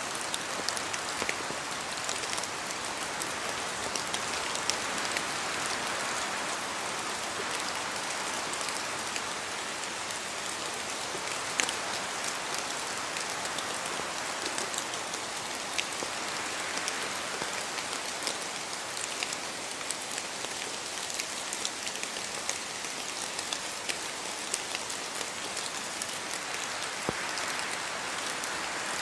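Steady rain falling on forest trees, with many separate drops clicking close by over the hiss. The hiss swells and eases three times, as gusts of wind move through the trees.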